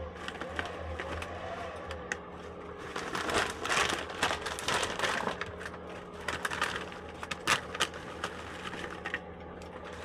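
Things being handled and set out: scattered clicks, knocks and crinkling of packaging over a steady low hum.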